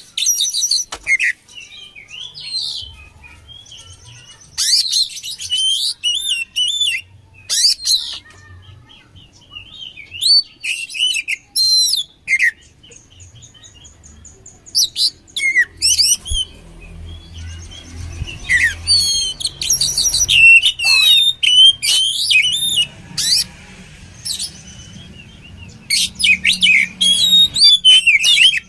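Oriental magpie-robin (kacer) singing in bursts of rapid, varied whistles and trills, with short pauses between phrases.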